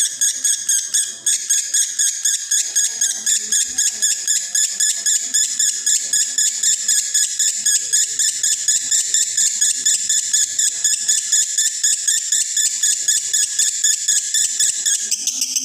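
Male lovebird in breeding condition singing the 'konslet' style of chatter: a long unbroken run of rapid high notes, about six a second.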